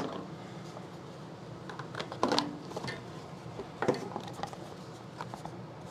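A few light clicks and knocks of hands handling parts and wiring on a snowblower engine, over a low steady hum.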